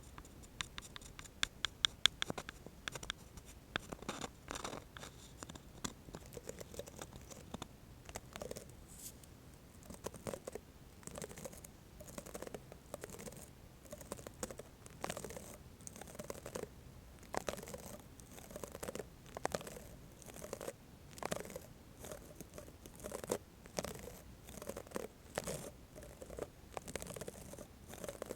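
Close-miked ASMR trigger sounds of a spatula scratching and tapping, in short irregular strokes. A quick run of crisp clicks comes in the first few seconds.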